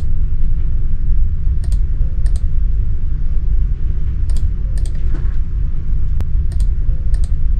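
Steady low rumble of background noise with about seven sharp clicks at irregular intervals, roughly half a second to two seconds apart.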